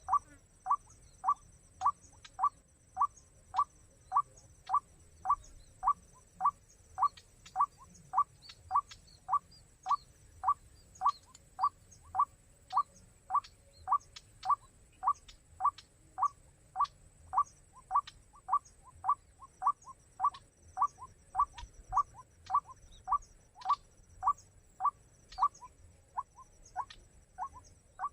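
White-breasted waterhen call, the 'ruak-ruak' used to lure the birds, repeated over and over at an even pace of about two short notes a second. Near the end a few softer notes slip in between the main ones.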